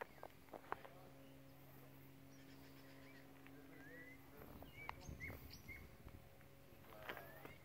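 Faint outdoor ambience of wild birds giving scattered short chirps and whistled calls. A low steady hum runs underneath and drops out about halfway through, with a few soft ticks early on.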